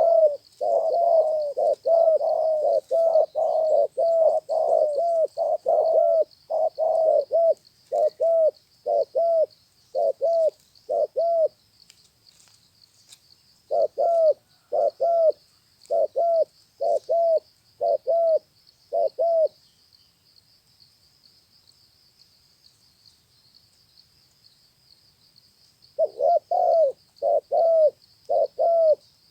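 Spotted dove cooing: long runs of short, repeated coos, broken by pauses of a few seconds. A steady faint high hiss runs behind it.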